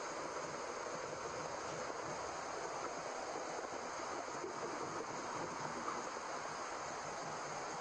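Steady white noise: an even, unbroken rushing hiss like a running stream, with no beat or pulse, used as a baby sleep aid.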